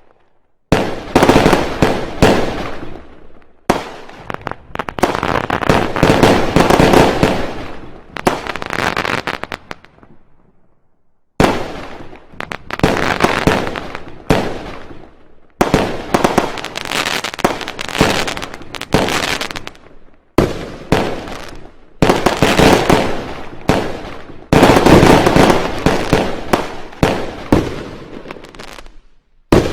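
Fireworks going off in rapid volleys of sharp bangs and crackling, with brief pauses between barrages: one near the start, one about ten seconds in and one about twenty seconds in.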